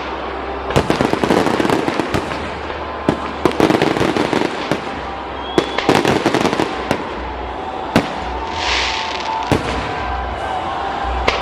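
Fireworks display: repeated sharp bangs of shells bursting, with dense runs of crackling in the first half and a short hiss about three quarters through.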